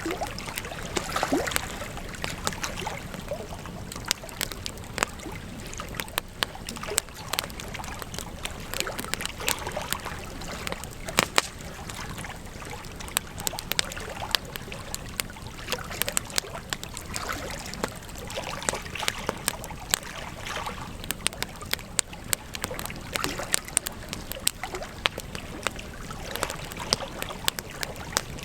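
Wood campfire crackling: frequent, irregular sharp pops and snaps over a steady soft hiss of burning.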